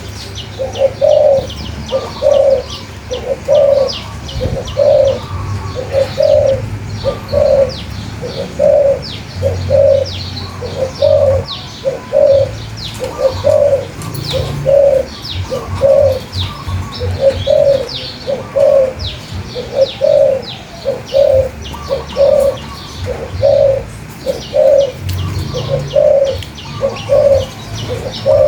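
A dove cooing: low, hooting notes repeated in a steady rhythm, about three every two seconds. Small birds chirp quickly and high-pitched over it throughout.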